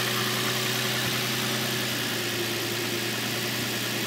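2006 Infiniti G35's 3.5-litre V6 idling steadily, just started on a chilly day, heard from the open engine bay.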